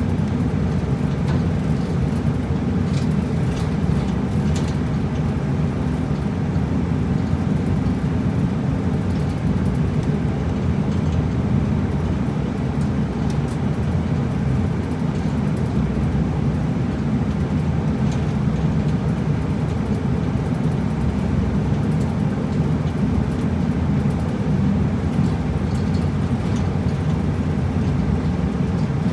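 Route bus driving along, heard from inside the cabin at the front: a steady low engine drone mixed with road noise.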